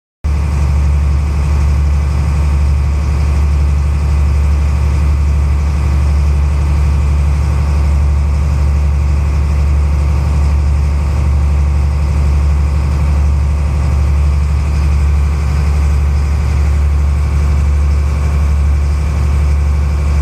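Heavy engine running steadily at constant speed, a deep low drone with a fast, even pulse and no change in pitch; it cuts off abruptly at the end.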